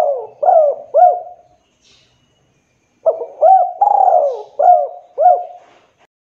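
Spotted dove cooing: the end of one phrase, then after a gap of about a second and a half a full phrase of about five arched coos, the middle one longer and rougher.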